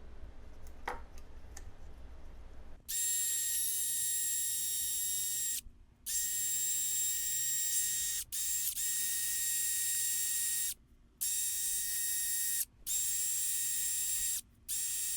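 A power tool fitted with a wire wheel runs with a steady high whine, brushing rust off cast-iron machine parts. It starts about three seconds in and drops out abruptly several times before resuming.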